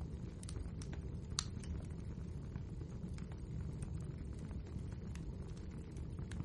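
Wood fire burning in a fireplace: a steady low rumble of the flames with scattered sharp crackles and pops, the loudest about a second and a half in.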